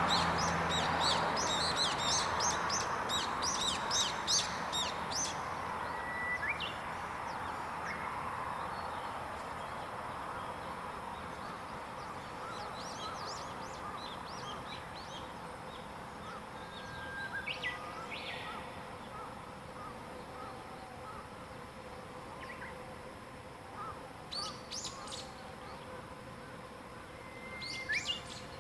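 Wild birds singing and calling in a mountain woodland at dawn. A rapid series of high chirps fills the first few seconds, and after that only scattered single calls are heard. A soft rushing noise underneath fades away over the first several seconds.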